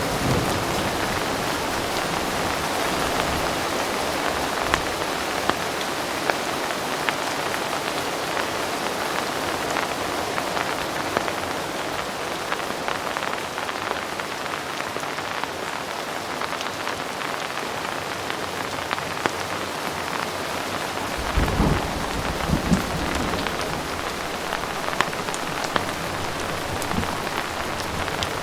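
Heavy rain falling steadily, with scattered sharp drop ticks over a dense hiss. About two-thirds of the way through, a low rumble of distant thunder rolls for a couple of seconds.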